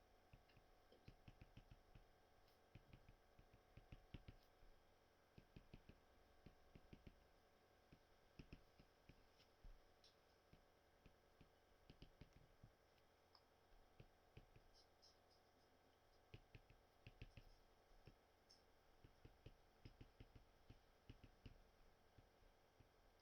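Faint, irregular small clicks and taps, several a second in clusters, over quiet room tone.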